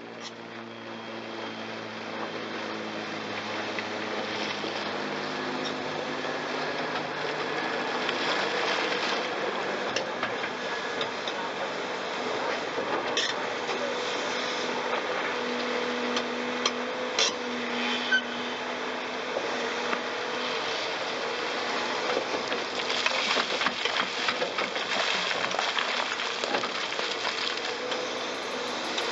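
Heavy machinery working: a large hydraulic excavator's diesel engine running steadily under load, with scattered sharp knocks and clanks of rock and coral, the clearest a little past the middle.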